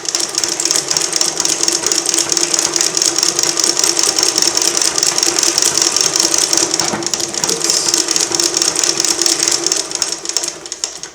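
Industrial double-needle, needle-feed sewing machine (a Brother LT2-B872 clone) driven as fast as possible on a foot-pedalled treadle base, giving a loud, rapid, steady clatter of stitching that slows and dies away near the end.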